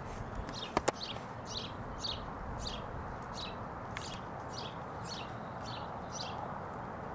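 A bird calling over and over, a short high note sliding downward about twice a second, over steady outdoor background noise. Two sharp clicks about a second in.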